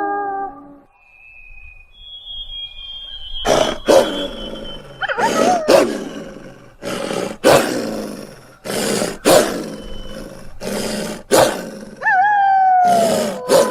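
Wolf calls used as a dire wolf sound effect. A howl trails off just after the start, then comes a run of harsh snarls and growls about once a second, and near the end a falling howl.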